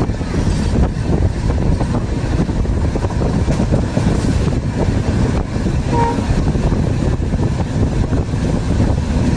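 Steady, loud low rumble of a moving train on the rails, with a short faint tone about six seconds in.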